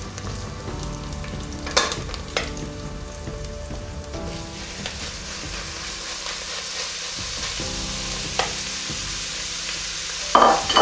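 Onions and chili sizzling in olive oil in a stainless steel pot while a wooden spatula stirs and knocks against the pot. Raw minced meat goes in about four seconds in, and the sizzle turns brighter and hissier. Near the end there is a loud clatter, the spatula being put down on the pot.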